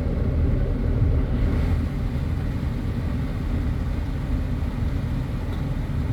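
Vehicle engine idling: a steady low rumble heard from inside the cabin.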